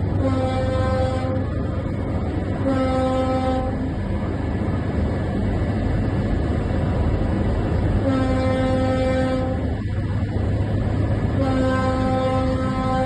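Ship's horn sounding four long blasts, each more than a second long: the first three near the start, a little after two and a half seconds and at about eight seconds, and the last beginning near the end and still going. A steady low rumble runs under them.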